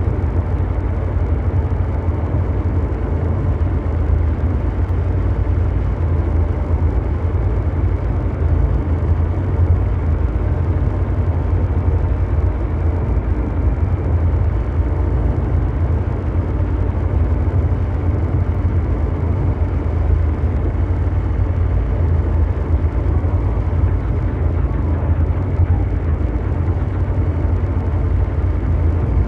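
Continuous mechanical drone noise in a brown-noise style: a steady deep rumble with a fainter hum above it, without breaks or changes.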